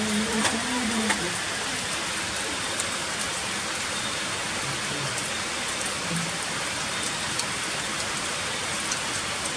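Heavy rain falling steadily onto stone paving, a dense, even hiss of rain and splashing.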